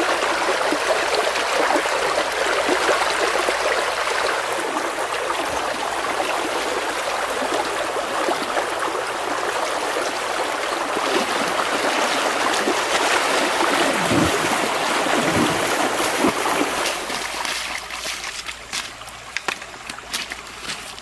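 River water flowing and trickling in a steady, even rush. It fades down about four-fifths of the way through, leaving a few light ticks and small splashes near the end.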